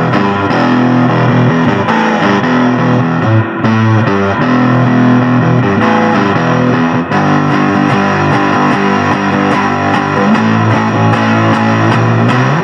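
Instrumental break of a blues song: a distorted electric guitar playing over a bass line, with no singing.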